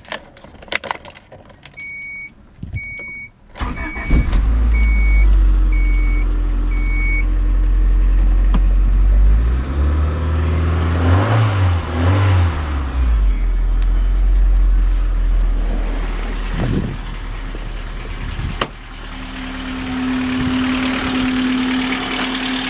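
A car's warning chime beeps repeatedly, then the 1988 Honda Accord LX-i's fuel-injected 2.0-litre A20A3 four-cylinder starts about three and a half seconds in and settles to a steady idle, with two short blips of the throttle around the middle. The valvetrain is noisy enough that the owner reckons it needs a valve adjustment.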